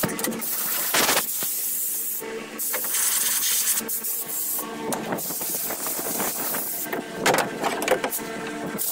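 Power grinder running and grinding, a harsh hiss over a steady motor whine that eases and comes back several times as the tool bears on the work and lifts off.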